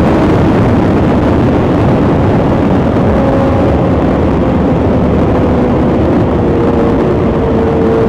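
BMW S1000XR inline-four engine breathing through a full Akrapovic titanium exhaust, running at a fairly steady note under way. The note sits under a loud rush of wind and road noise.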